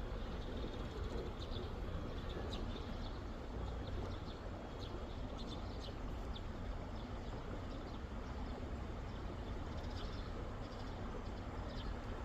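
Small birds chirping in short repeated calls over a steady low rumble of outdoor background noise.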